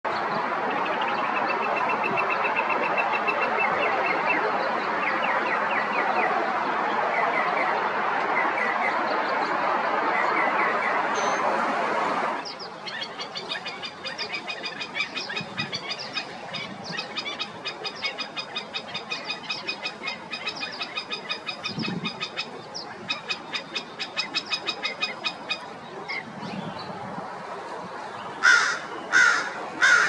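Northern mockingbird singing faintly under a loud steady rushing noise for the first twelve seconds. Then come black-necked stilt calls, sharp and repeated several times a second. Near the end an American crow gives a few loud caws.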